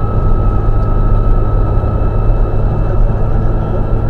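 Škoda 130 LR rally car's rear-mounted four-cylinder engine running steadily under way, heard from inside the cabin.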